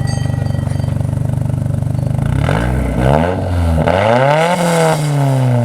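Nissan 180SX's turbocharged four-cylinder engine through a freshly fitted straight-pipe exhaust, idling steadily and then revved twice starting about two seconds in, the second rev climbing higher before the revs fall back near the end.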